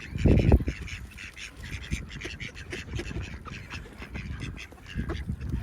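A group of ducks quacking and chattering in quick, overlapping calls as they gather at food being handed out. A brief loud low rumble about half a second in.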